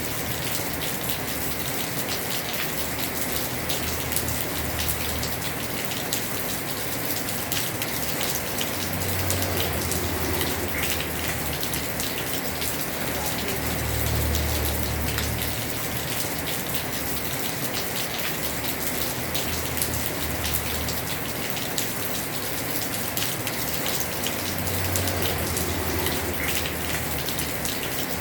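Heavy rain falling on a house roof: a steady hiss thick with the patter of drops. A low rumble swells and fades a few times.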